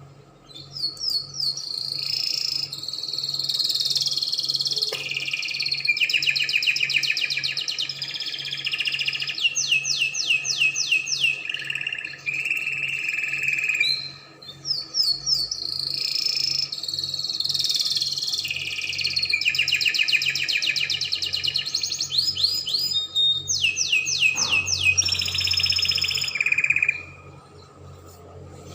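Spanish Timbrado canary singing two long phrases of rapid trills and rolling notes, with a brief break about halfway through; the song stops shortly before the end.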